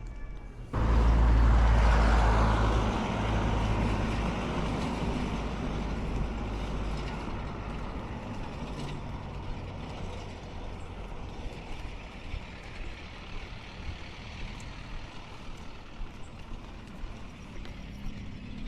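Motor vehicle rumble with road noise that comes in suddenly and loud, then fades slowly to a steady lower level.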